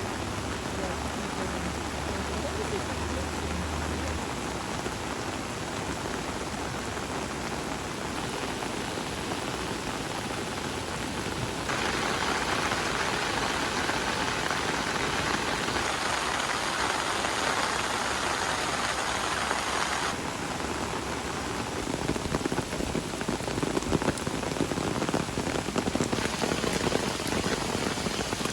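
Steady rushing, splashing noise of water, which grows louder for about eight seconds from around twelve seconds in.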